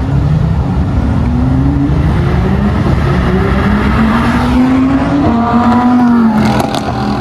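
A performance car's engine under hard acceleration, its note climbing steadily for about six seconds and then dropping near the end.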